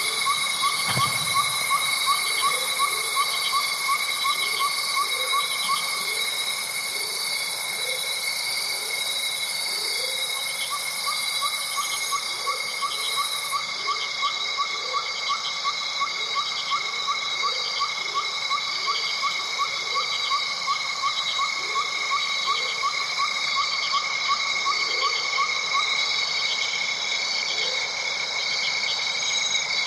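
A chorus of calling insects and frogs: steady high trills layered with a fast pulsing trill that drops out for a few seconds early on and returns, over repeated short lower calls.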